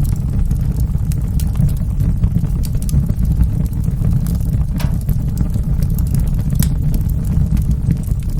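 Wood fire burning in a fireplace: a steady low roar of the flames with scattered small crackles and pops, one sharper pop a little past halfway.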